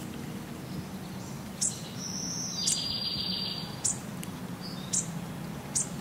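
Birds calling outdoors: a short, high, sharp chirp repeats about once a second, with a longer high buzzy trill about two seconds in. A low steady hum sits underneath.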